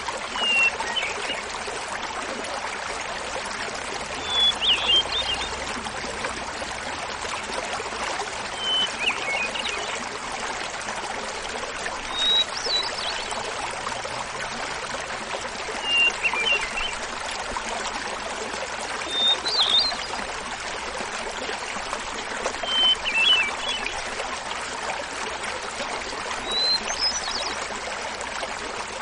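Hermit thrush singing over a small waterfall's steady rush. About eight song phrases come roughly every four seconds. Each is a clear opening note followed by a quick fluty flourish, and successive phrases shift up or down in pitch.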